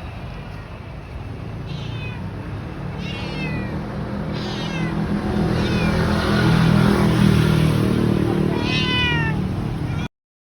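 A cat meowing about five times in short calls that fall in pitch, over a low steady rumble. The sound cuts off just before the end.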